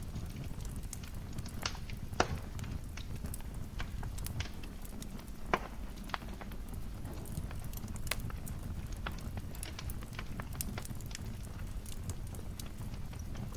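Wood fire crackling in a fireplace: irregular sharp pops and snaps over a steady low rumble of the flames, with two louder pops about two and five and a half seconds in.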